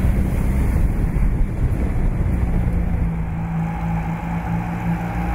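1955 Austin-Healey 100/4 BN2's four-cylinder engine running at a steady, moderate speed as the car drives along. About three seconds in, the sound shifts from inside the open cockpit to outside the car as it approaches.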